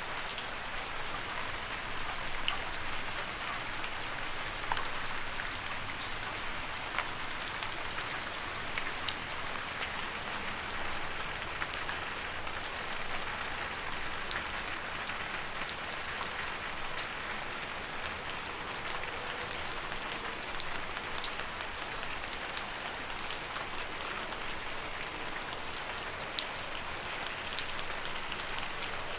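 Steady rain falling on a surface, an even hiss with many separate drops pattering and ticking sharply.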